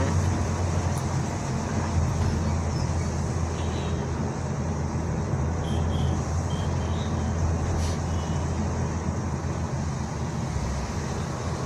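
Steady in-cabin noise of a Honda Elevate SUV on the move: a constant low road and engine rumble with an even hiss over it.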